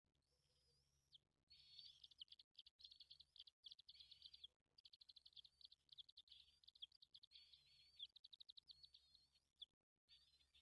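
Faint, rapid high-pitched bird chirping, in long fast runs of calls broken by brief pauses.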